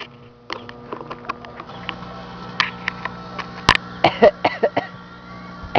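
Microwave oven running with a steady electrical hum, while irregular crackles and snaps of arcing inside it come and go; the loudest snaps come about four seconds in. The oven is arcing to itself as it burns out.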